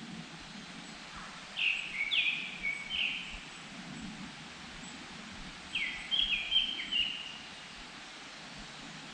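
Japanese thrush singing: two short phrases of quick whistled notes, the first about a second and a half in, the second about six seconds in.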